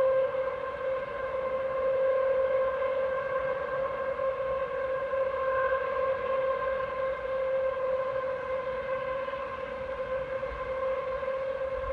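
A steady droning hum at one unchanging pitch, with a series of fainter overtones above it, swelling and fading only slightly in loudness; its source is unidentified.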